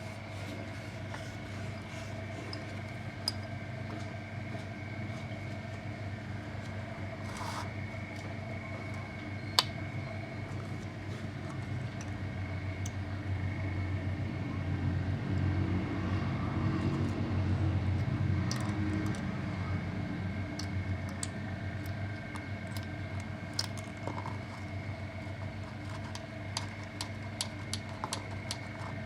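Steady machine hum with a few fixed tones; it swells for several seconds about halfway through. Scattered light metallic clicks and clinks of tools come more often toward the end.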